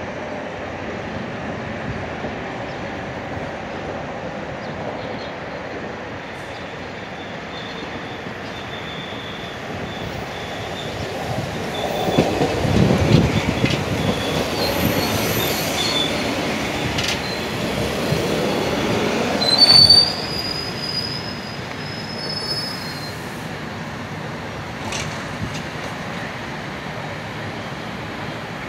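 A two-car GCRTA Red Line rapid-transit train of Tokyu-built cars running past on the rails. Its rumble builds from about ten seconds in and stays loud for several seconds, with high wheel squeals, the loudest near twenty seconds in, then fades away.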